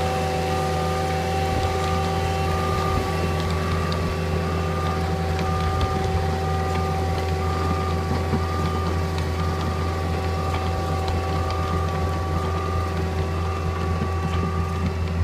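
Caterpillar 287C compact track loader running steadily, driving a Simex CHD120 chain trencher: a constant low engine hum with steady whining tones, one of them pulsing on and off.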